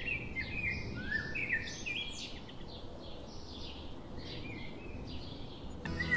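Small birds chirping in short, repeated calls over a steady background hiss.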